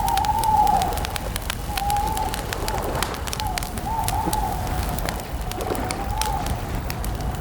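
Campfire crackling with frequent sharp pops over a low rumble, while a wavering, cooing animal call repeats every second or so at a middle pitch.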